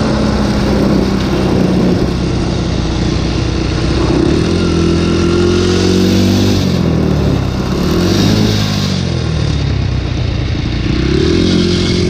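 Honda dirt bike engine accelerating hard uphill. It revs up through the gears, the pitch dropping sharply at two gear changes and then climbing again, with steady wind rushing past the rider's microphone.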